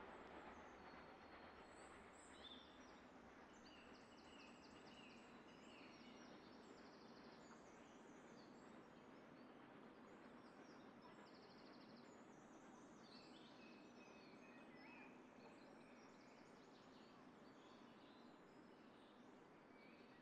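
Faint birdsong from several small birds, short chirps and trills, over a faint low background rumble that slowly dies away.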